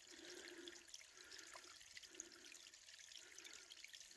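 Faint running water: rainwater streaming and trickling down the rocky trail after a night of heavy rain, with a soft low sound repeating about once a second.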